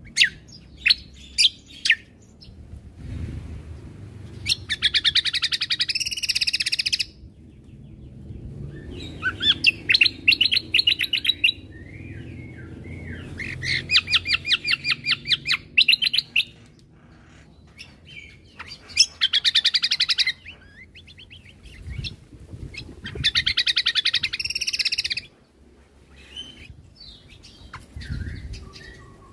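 Cucak kombo (kecial kombo) songbird singing in repeated bursts of fast, rapid-fire chattering trills, each one to three seconds long, with short single notes between them. A low rumble sits underneath.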